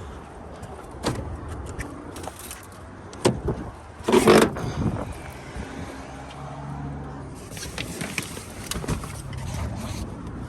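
Roadside traffic: a car engine's low hum with scattered knocks and a short, louder clatter about four seconds in.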